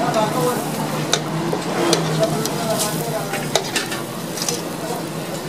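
Parathas frying in oil on a large flat tawa griddle, sizzling steadily, with short sharp clicks and scrapes of a metal spatula against the griddle as they are turned and pressed.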